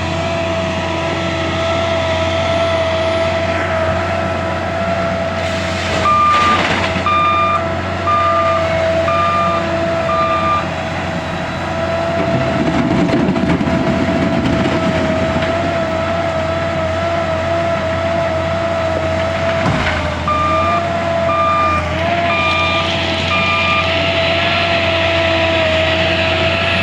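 L&T 9020 wheel loader's diesel engine running steadily with a constant whine, its reversing alarm beeping about once a second in two spells: about five beeps some six seconds in, and about four beeps some twenty seconds in. A brief loud rush of noise comes just before the first beeps.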